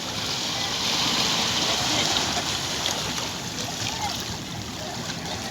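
Sea waves washing onto the shore, a steady rushing noise.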